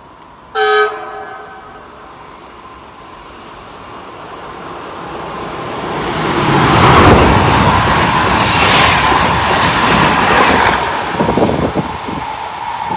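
Electric multiple-unit passenger train sounds one short horn blast about half a second in. It then approaches and passes at speed, the rail noise rising to its loudest near the middle. Near the end the wheels clatter quickly over the rail joints.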